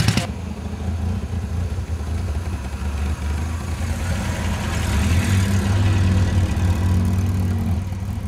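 A car engine idling: a low, steady rumble that grows louder a little after halfway through and eases again near the end.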